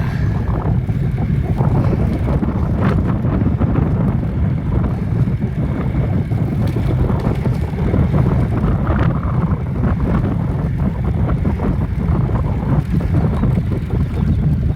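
Wind rumbling steadily on a phone microphone carried on a moving bicycle.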